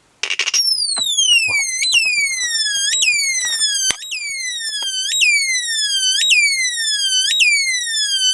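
Electronic bird-chirp generator: a transistor oscillator driven by an astable multivibrator, sounding continuously. It starts up just after the beginning. Each chirp glides steadily down in pitch over about a second, then snaps back up, repeating about once a second.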